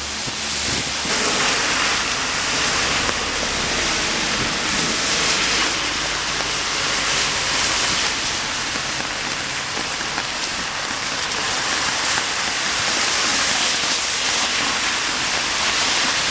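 Heavy typhoon rain, a dense steady hiss of water pouring down, swelling and easing slightly with the gusts.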